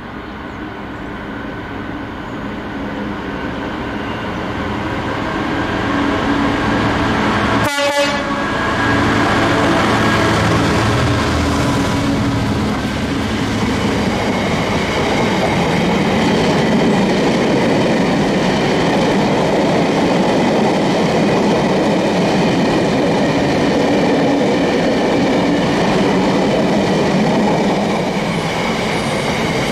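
Freightliner Class 66 diesel locomotive, with its EMD two-stroke engine, running closer and louder until it passes about eight seconds in. Then a long rake of loaded freight wagons rolls by with a steady rumble and the clatter of wheels on the rails.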